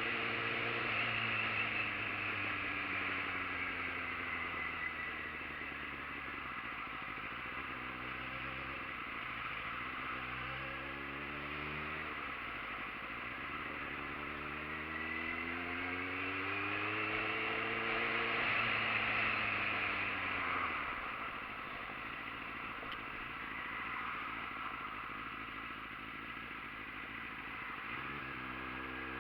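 Motorcycle engine while riding, its pitch rising and falling several times as it is revved up and eased off, over steady wind and road noise. About two-thirds of the way in the engine note drops away for several seconds, then returns near the end.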